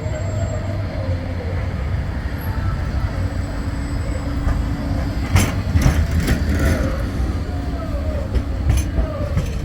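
Bombardier Flexity 2 tram running with a steady low rumble, and a run of sharp clicks about five to seven seconds in.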